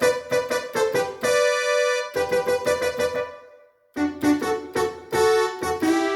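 Yamaha PSR-530 keyboard playing a piano-like voice: a quick run of struck notes that rings out and fades just after three seconds in, then a new phrase starting about four seconds in.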